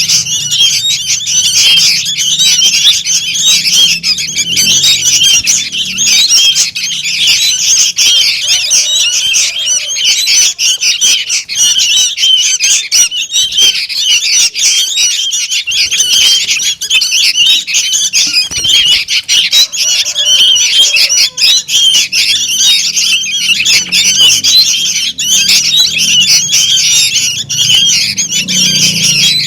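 Sooty-headed bulbul chicks calling noisily: a loud, unbroken stream of overlapping high chirps and squawks from several birds at once.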